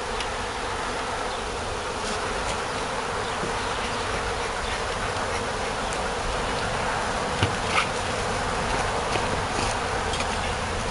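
A swarm of honeybees buzzing steadily as a dense hum of many wings while the freshly hived swarm is still flying and settling around the box. There are two faint brief taps about seven and a half seconds in.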